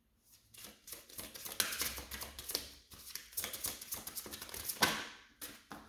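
Deck of oracle cards being handled and shuffled: a dense run of quick papery flicks and rustles that starts about half a second in and stops just before the end.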